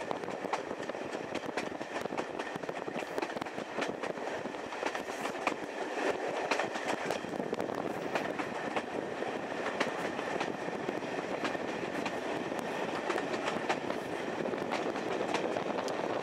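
Passenger carriages of a steam-hauled train running along the line: a steady rumble of wheels on rail, scattered with sharp clickety-clack clicks of the wheels over the rail joints.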